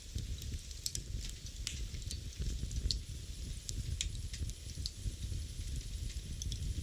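Fire burning in a fireplace: irregular sharp crackles and pops, a few a second, over a steady low rumble of the flames.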